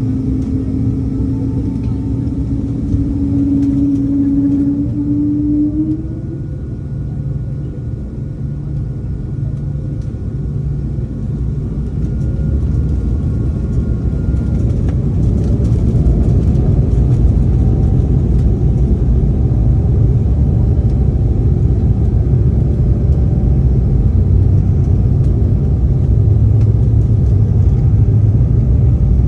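Embraer E2 jet's geared turbofan engines spooling up with a tone that rises in pitch over the first few seconds, then the low rumble of the takeoff run building steadily louder.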